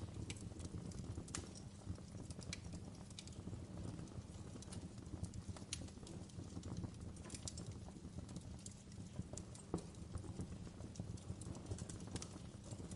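Wood fire in a fireplace crackling, with irregular sharp snaps and pops from the burning logs over a low steady rumble.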